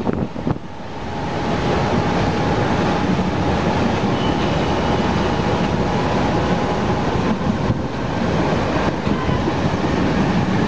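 Mumbai suburban electric local train running along the track, the carriage and wheel rumble heard inside the coach. It swells about a second in and then holds steady, with a faint thin whine running through it for a while.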